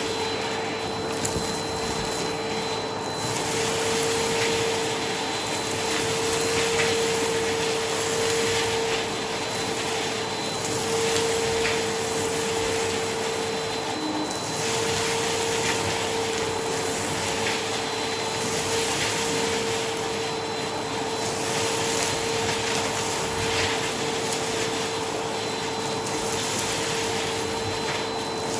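Vacuum cleaner running steadily on carpet: a continuous rush of suction with a steady motor hum, and a few faint ticks.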